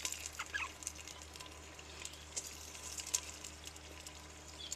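Chicken frying in hot ghee with onions in a clay cooking pot over a wood fire: an irregular run of small sizzling crackles and pops, a few louder than the rest.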